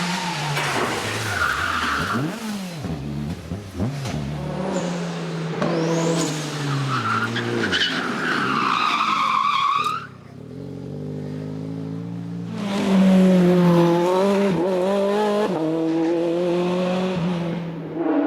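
Racing cars' engines at full throttle, rising and falling in pitch as they shift through gears, with a brief tyre squeal. The sound cuts off abruptly about ten seconds in, and another race car engine comes up loudly a couple of seconds later.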